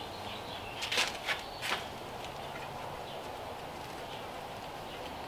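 Three quick clicks and knocks of hand-tool work on a dirt bike's rear wheel while the rim lock is loosened, between about one and two seconds in, over a steady low hiss.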